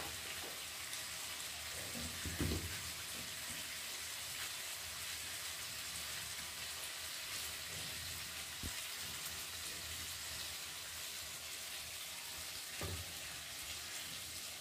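Steady faint sizzling hiss of onion, capsicum and spice paste frying in a kadhai, with a couple of soft low knocks.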